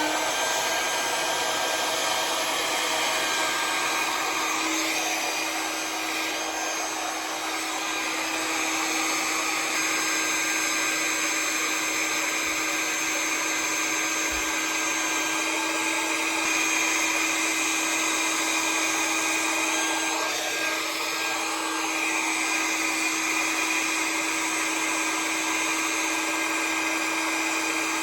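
Conair hair dryer with a nozzle attachment running steadily on a section of hair: a constant motor hum under rushing air, shifting slightly in tone as the dryer is moved.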